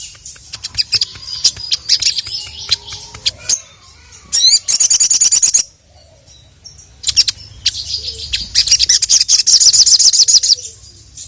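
Sogon (sogok ontong sunbird) singing in full voice: rapid high-pitched trills and chips in bursts, with a short pause about six seconds in, then a long dense trill.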